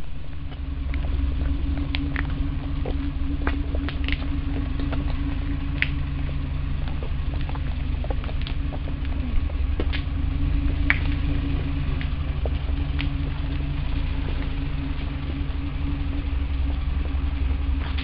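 A hearse's engine running steadily at low revs as it crawls along, with footsteps and scattered small clicks of people walking.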